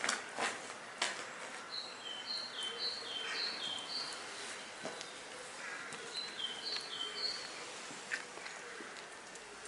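A songbird singing a repeated high-low two-note phrase, in two runs of chirps. A few footsteps on wet stone paving sound within the first second.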